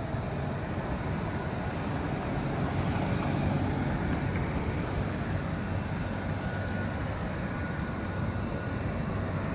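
Jet engines of a Boeing 737-800 (CFM56-7B turbofans) running, a steady broad rumble that swells slightly about three to four seconds in.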